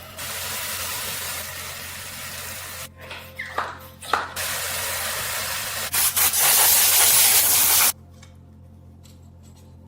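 Paint being sprayed on metal in three long bursts of hiss, the last the loudest, cutting off sharply near the end. Two short squeaks come in the gap between the first and second bursts.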